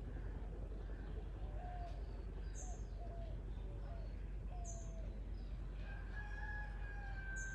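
Bird calls over a steady low background noise: several short calls, then one long drawn-out call with overtones near the end.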